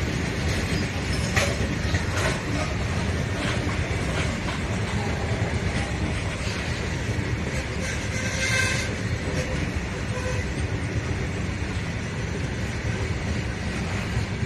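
Covered freight wagons of a goods train rolling past close by: a steady rumble of steel wheels on the rails, with a few sharp clicks in the first few seconds and a brief clatter about eight seconds in.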